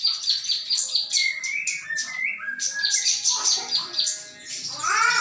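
Small birds chirping rapidly and continuously, with many short, high chirps overlapping one another.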